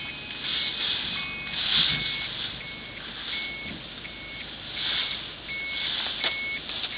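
An electronic alarm beeping steadily at one pitch, about three beeps every two seconds.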